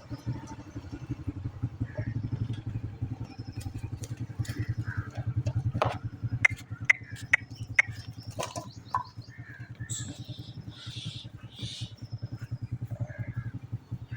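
A small engine running steadily with a fast, even putter, with a few sharp high chirps about halfway through and short hissy bursts a little later.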